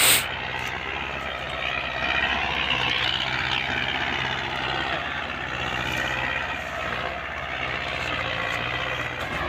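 Diesel engines of two Belarus tractors running hard under load as they pull a heavily loaded, bogged-down trolley free; a steady, continuous drone. A short sharp knock sounds right at the start.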